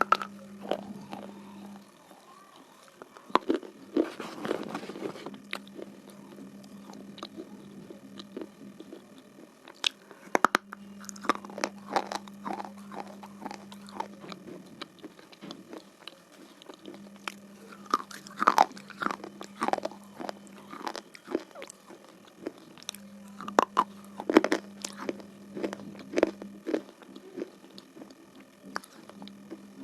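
Red slate pencil being bitten and chewed, with crunchy cracks that come in four bursts several seconds apart.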